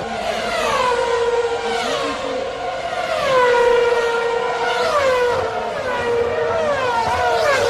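Formula One car engines running at very high revs, a shrill multi-toned scream whose pitch drops again and again, about once a second, as cars go by one after another.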